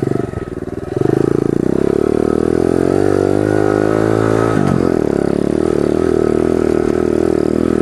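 Pit bike engine pulling away: the revs climb steadily from about a second in, dip sharply just past halfway at a gear change, then hold fairly steady.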